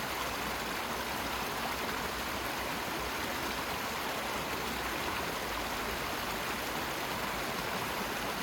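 Steady, unchanging rush of water, like a waterfall or fast-flowing stream.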